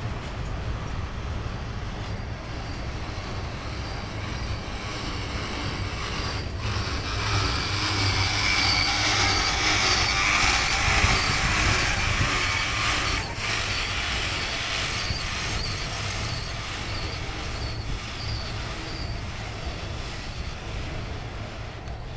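Double-stack intermodal train's loaded well cars rolling past, the wheels rumbling and rattling over the rails, loudest about halfway through, with a faint high wheel squeal.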